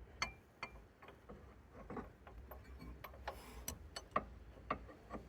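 Faint, irregular metallic clicks and taps of hand tools, a socket and bar, being handled on the engine.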